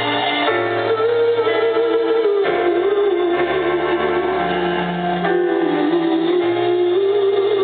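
Live band music: keyboard chords over a bass line that changes every couple of seconds, with a long wavering melody line held above them.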